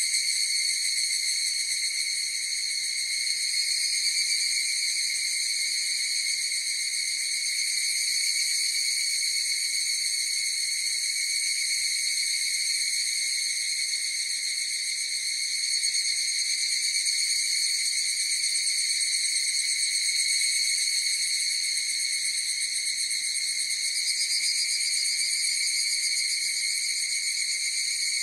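Chorus of higurashi (evening cicadas) calling: a continuous, steady high-pitched ringing drone that never breaks.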